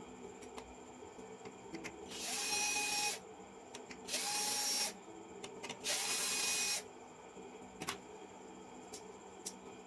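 A small high-speed electric motor, like a mini drill, run in three short bursts of about a second each; each starts with a brief rising whine, then holds steady. A few light clicks come between and after the bursts.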